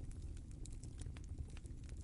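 Wood fire crackling in a fireplace: scattered sharp pops and snaps over a low, steady rumble of the flames.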